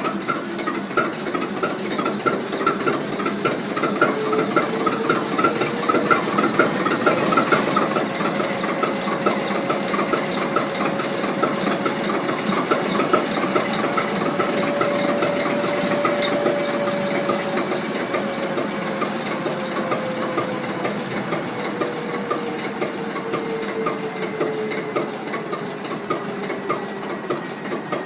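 Large Duvant 9VOS diesel engine running, its speed slowly rising over the first half and then easing back down, with a rapid, regular ticking over the running.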